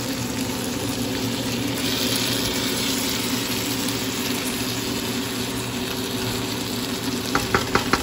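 Shrimp and marinated chicken sizzling as they fry in a pan, over a steady low hum. Near the end a few sharp clicks as the spatula knocks against the pan.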